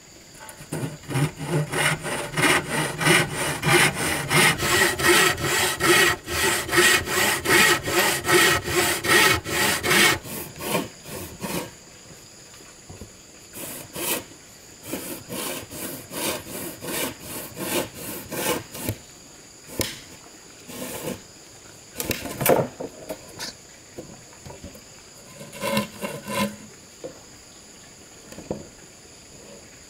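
Hand saw cutting wood in rapid, even strokes for about ten seconds, then in slower, scattered strokes.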